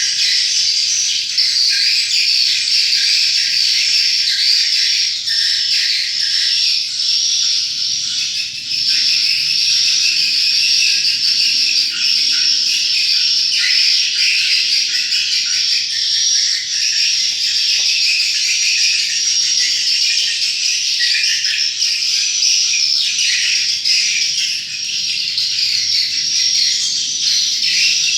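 Swiftlets twittering: a dense, unbroken chorus of high chirps from many birds at once.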